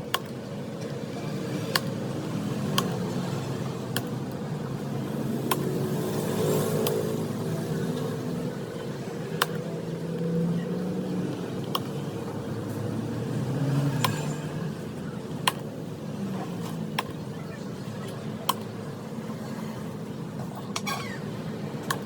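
Steady low background hum with faint wavering tones, and sharp clicks every second or two.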